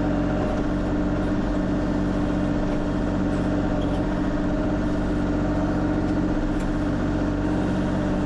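Kubota KX040 mini excavator's diesel engine running steadily at constant speed.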